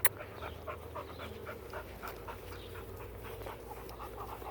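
A dog panting steadily, in quick, even breaths of about three to four a second.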